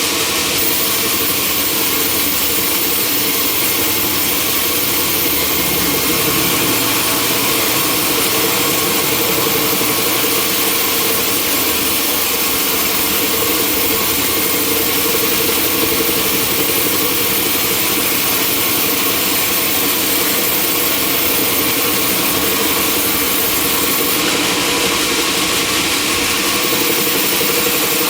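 Sawmill machinery running with a steady, loud mechanical noise and a constant hum, unchanging throughout.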